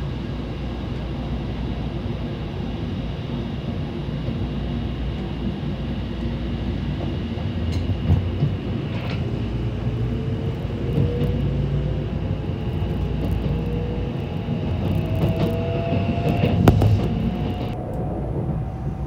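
Inside a Tokaido Shinkansen car as the train pulls away and gathers speed: a steady low rumble, with a motor whine that rises slowly in pitch through the second half. A few sharp clicks cut through, the loudest near the end.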